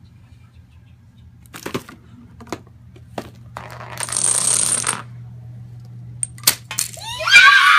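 Small hard pieces of a tabletop chain-reaction machine clicking and clattering: a few separate clicks, then a rattling cascade about a second and a half long, then two sharp snaps. A high excited voice cries out near the end.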